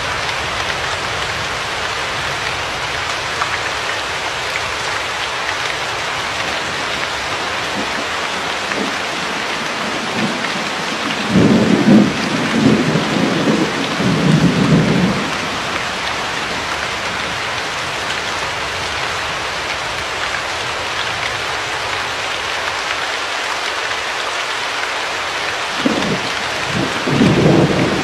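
Steady rain falling, with thunder rumbling for about four seconds starting some eleven seconds in, and again near the end.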